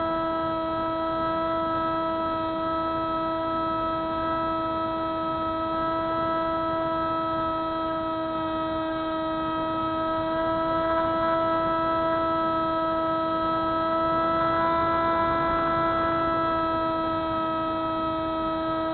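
Electric motor and propeller of a Spyhawk FPV model plane running at a steady cruise throttle: a steady, unbroken whine.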